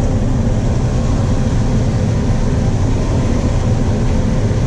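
Combine harvester running steadily under load while harvesting corn, heard from inside the cab: a constant low engine and machinery drone.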